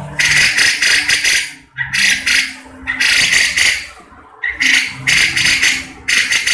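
Cucak jenggot (grey-cheeked bulbul) giving harsh rattling chatter calls in repeated bursts, each under a second long. A faint steady low hum of other sound runs underneath.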